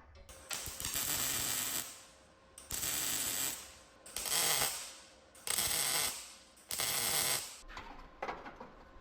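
A mechanical tool or mechanism working in five bursts of about a second each, with short pauses between, then a few short clicks near the end.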